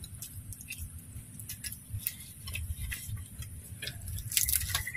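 Close eating sounds: someone chewing fried duck, with small irregular mouth clicks and crunches, a denser run of them near the end.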